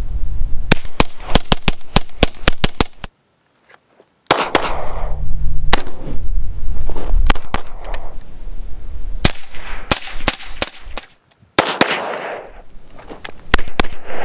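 Rifle gunfire: strings of quick, sharp shots at about four a second, broken off twice by abrupt silences.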